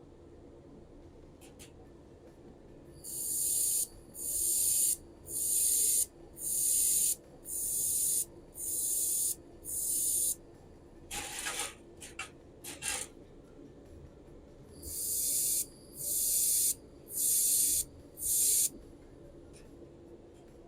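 Handheld laser welder firing in spot-weld mode on anodised aluminium without filler wire. Each weld pulse is a short, high hiss of under a second, about one a second: seven in a row, a few short uneven bursts, then four more. A steady low hum from the fume extractor runs underneath.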